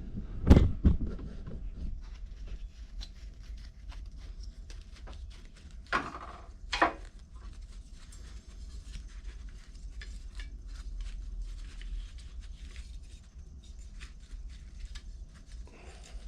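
Small carburetor parts being handled and fitted onto a lawn mower engine: light irregular clicks and taps, with a sharper knock about half a second in and two more around six and seven seconds in.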